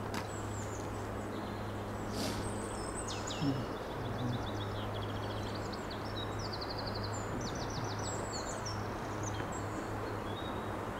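Wild songbirds singing: a run of short, high trilled phrases of quickly repeated notes, over a steady background hiss and low hum.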